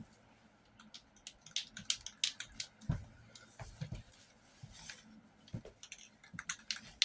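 Irregular light clicks and taps of objects being handled, with a few duller thumps, growing busier near the end.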